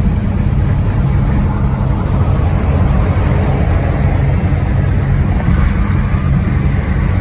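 Swapped-in V8 engine of a 1955 Chevy Bel Air pulling under acceleration at freeway speed, a steady low rumble heard from inside the cabin.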